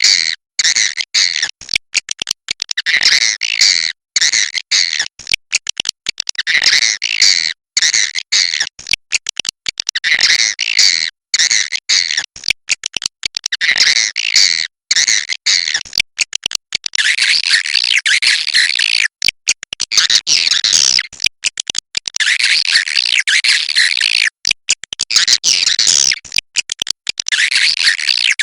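A dense flock of swiftlets giving rapid, high twittering chirps without pause, broken by frequent short gaps.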